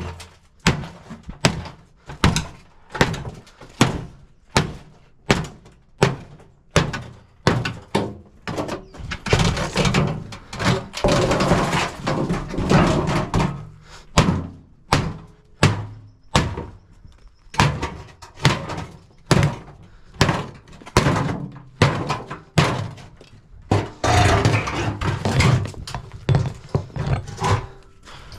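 Blunt axe striking the folded-over sheet-metal seam of a dishwasher's base again and again, about one or two knocks a second. It is tapping along the fold to separate the stainless steel tub bottom from the plain steel panel, with busier, faster stretches of knocking in the middle and near the end.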